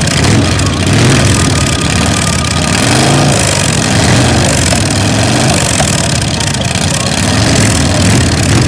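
Custom chopper motorcycle engine running loudly and being revved: it blips up and falls back about three seconds in and again near the end, idling in between.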